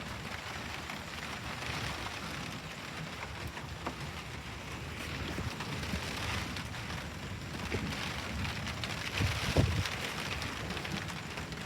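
Steady rainfall, with wind rumbling on the microphone and a couple of louder low thumps about nine and a half seconds in.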